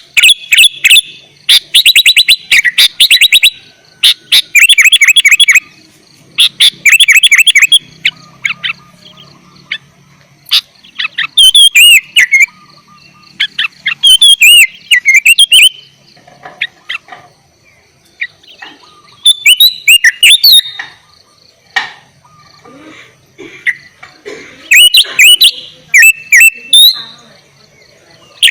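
Sooty-headed bulbul (kutilang) singing loudly in bursts, with pauses of a second or more between phrases. Rapid chattering runs of notes give way after about ten seconds to short phrases of curving whistled notes.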